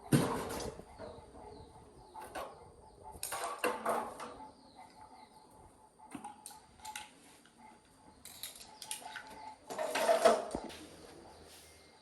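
Metal parts and tools being handled during a machine restoration: irregular clinks and clatter, with louder scraping bursts right at the start, about three and a half seconds in, and again about ten seconds in.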